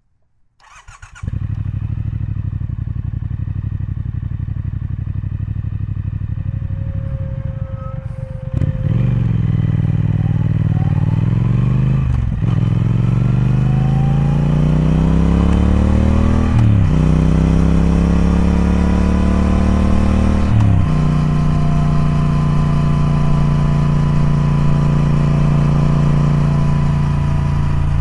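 Triumph Speed Twin's parallel-twin engine starts up and idles, then, about a third of the way in, pulls away accelerating through the gears. The engine note rises and drops back three times at the upshifts, then settles into a steady cruise.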